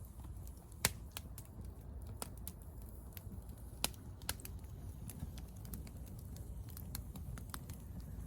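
Wood fire crackling, with sharp irregular pops, the loudest about a second in and near four seconds in, over a low rumble.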